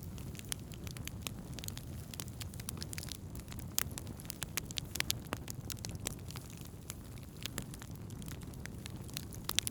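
Wood campfire burning, with a steady low rumble and irregular sharp crackles and pops, a few louder pops near the middle and just before the end.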